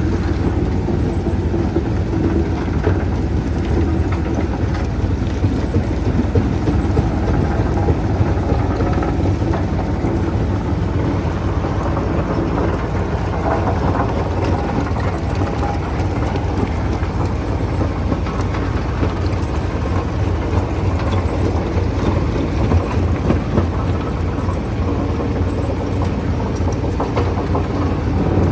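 Stone-crushing machinery running steadily under load: a loud, low engine drone with continuous rattling.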